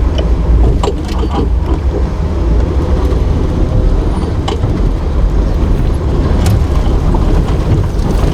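Nissan GQ Patrol 4x4 truck's engine running with a loud, steady low rumble, with several sharp knocks and clunks over it.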